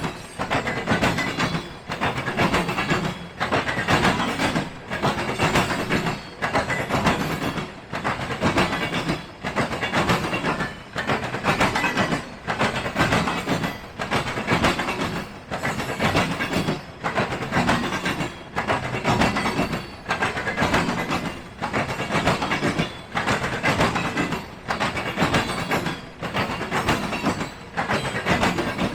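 Freight train rolling past, its wheels clacking over the rail joints in a steady rhythm of about one beat a second.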